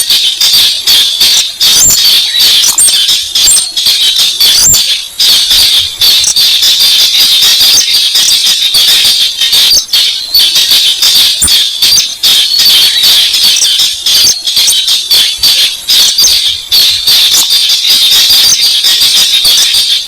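Recorded slaty-breasted rail (weris sintar) calls played as a bird lure: a fast, unbroken series of sharp, high ticking notes.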